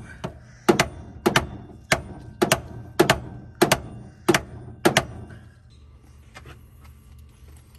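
Sharp metallic clanks in a steady series, about nine of them at just under two a second, each a quick double knock. They stop about five seconds in, leaving only a couple of faint ticks.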